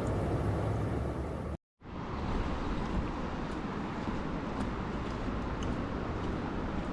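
Steady outdoor background noise, a rushing hiss with a low rumble. It cuts to total silence for a split second about a second and a half in, then comes straight back.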